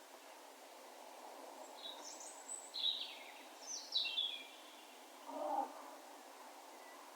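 Distant birds calling over a steady faint hiss: a few high calls, some sliding down in pitch, two to four seconds in, then a lower, shorter sound about five seconds in.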